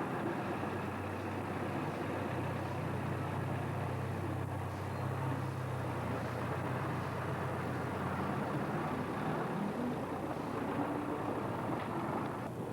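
An engine running steadily with a low hum, under a wash of noise.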